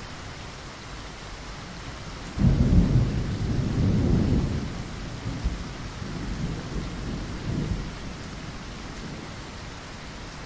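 Steady rain with a roll of thunder: a deep rumble sets in suddenly a little over two seconds in, is loudest for about two seconds, then rolls on more quietly and fades out a few seconds later, leaving the rain.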